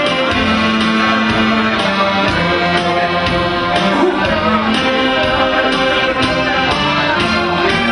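Accordion playing the melody of a Korean trot song in long held notes over a steady beat.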